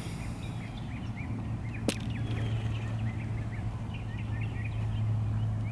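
Small birds chirping in many quick, short calls, over a steady low hum that sets in after about a second. There is a single sharp click about two seconds in.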